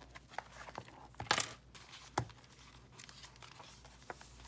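Pages of a handmade paper junk journal being handled and turned: soft paper rustles and small taps, with a louder papery rustle about a second and a half in and a sharp tap just after two seconds.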